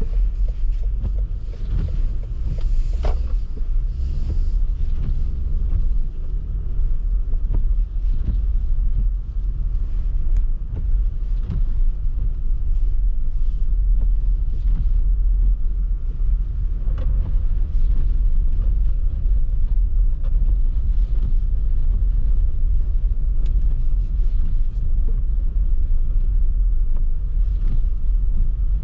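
Car driving on a snowy road: a steady low rumble of engine and tyres, with scattered faint ticks and knocks.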